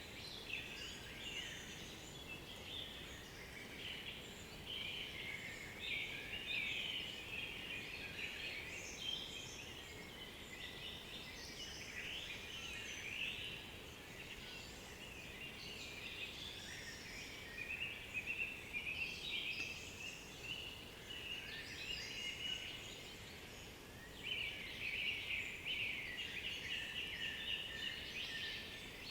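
Several songbirds singing at once in a forest chorus: overlapping whistled phrases, chirps and trills that go on without a break, busier in a few stretches.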